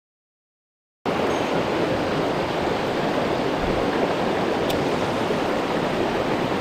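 Silence for about a second, then the steady rush of a mountain stream cuts in suddenly, its current running full after rain.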